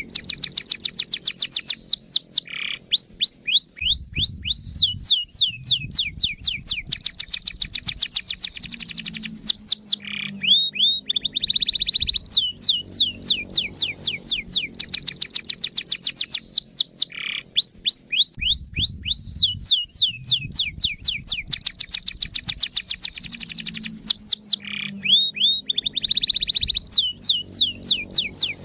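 Domestic canary song used as a lure to set other canaries singing: fast rolling trills of quick falling whistles, broken into phrases of a few seconds by short lower notes, the same sequence repeating about every eight seconds as if looped.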